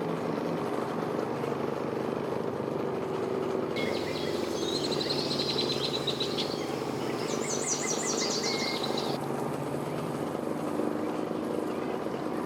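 A boat's engine running steadily at low speed. A songbird sings a few quick chirping phrases over it from about four seconds in, stopping a few seconds later.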